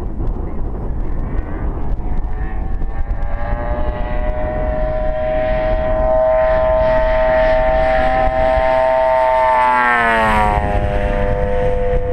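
Large gas engine of a radio-controlled Sbach aerobatic plane running at speed with its propeller, the note growing louder from a few seconds in, holding steady, then falling sharply in pitch about ten seconds in.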